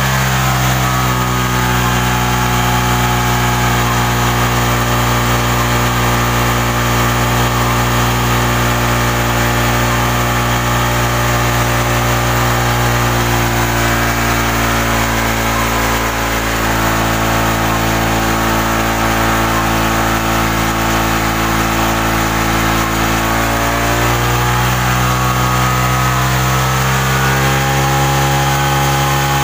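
Suzuki Shogun 125's single-cylinder four-stroke engine idling steadily while it warms up. Its speed sags a little past the middle and picks back up towards the end.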